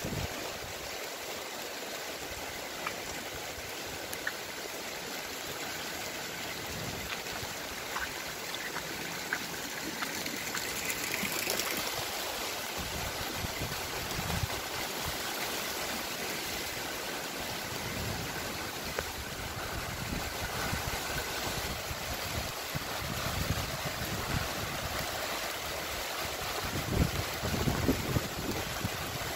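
Steady rain falling on garden foliage, an even hiss without a break, with a few louder low bumps near the end.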